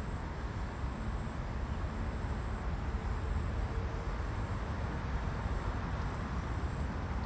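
Outdoor background ambience: a low, steady rumble with a constant high-pitched whine running over it, without change.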